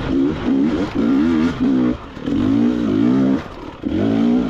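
Two-stroke dirt bike engine revving in about five short bursts, the throttle opened and shut again and again so that the note wavers up and down, the typical sound of working up a steep, technical climb.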